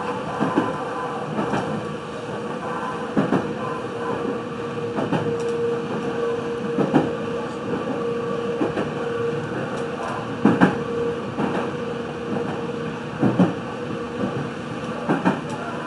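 Meitetsu 3100 series electric train running, heard from on board: a steady running rumble with a steady hum, and wheels clicking over rail joints every one to two seconds.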